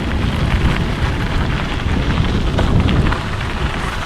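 Wind buffeting the microphone while a mountain bike descends a dirt trail at speed, with tyres rattling over the ground. It is a loud, steady, rumbling rush.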